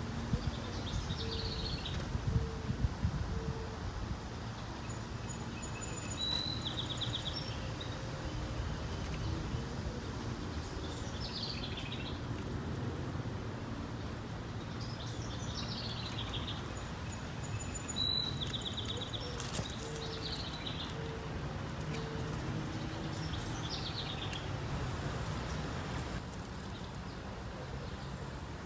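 Outdoor ambience of wild birds calling now and then: short high chirps every few seconds, two of them buzzy trills, over a steady low rumble. A few faint sharp clicks come in the first few seconds.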